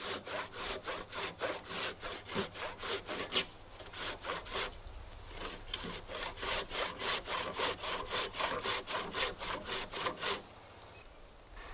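Hand saw cutting into a heavy 8x8 timber in steady back-and-forth strokes, about three a second, while sawing joinery. The strokes pause briefly near the middle, then resume and stop shortly before the end.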